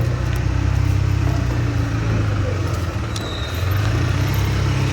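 A motor vehicle's engine running close by: a steady low rumble with street traffic noise.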